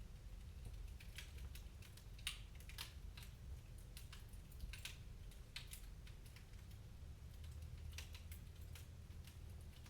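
Wood fire crackling in a fireplace: irregular sharp pops and snaps, a few a second, over a faint low rumble of the burning.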